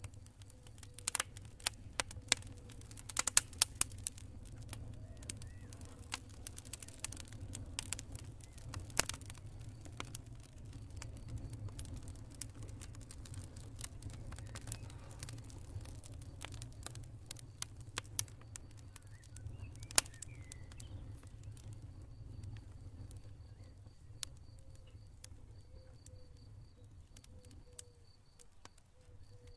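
Campfire burning: a steady low rumble of flames with irregular sharp crackles and pops of burning wood, thickest in the first few seconds and with single loud pops around the middle. A faint, evenly pulsed insect chirping, like crickets, comes in over the last few seconds.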